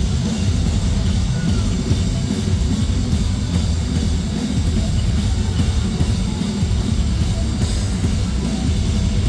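A metalcore band playing live, heard loud through a crowd recording: heavily distorted electric guitars and bass over a pounding drum kit.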